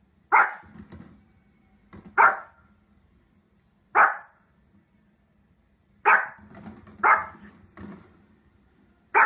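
A small fluffy dog, a Pomeranian, barking: six sharp single barks spaced a second or two apart, with a couple of softer yaps in between.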